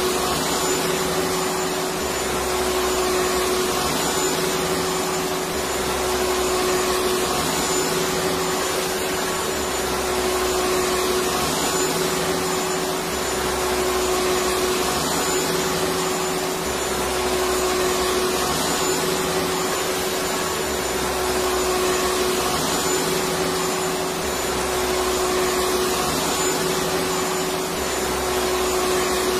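Electric vacuum cleaner running steadily: a constant airy hiss with a steady motor whine, over a low rumble that swells and fades about every three and a half seconds.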